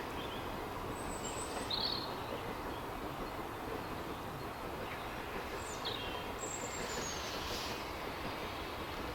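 Songbird chirps and short high calls, a few at the start and again about six seconds in, over a steady background rush of noise with no beat or rhythm.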